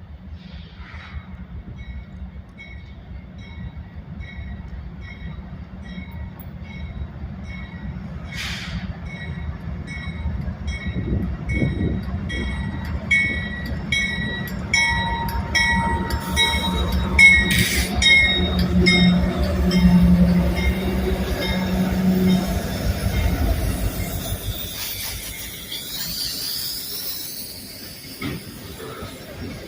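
Union Pacific diesel locomotives hauling a loaded rock train, rumbling louder as they approach and pass, with a bell ringing in an even rhythm through the first half. High-pitched wheel squeal rises and falls near the end as the cars roll by.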